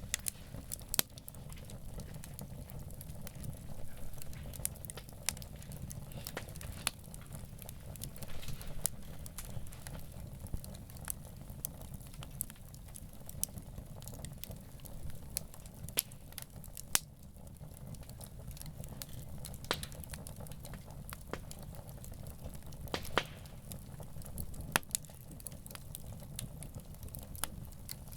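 Wood campfire burning, crackling with irregular sharp pops over a low steady rumble.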